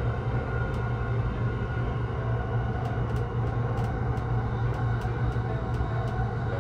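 E235-series electric train running, heard from inside the carriage: a steady low rumble and hum, with a few faint light clicks in the second half.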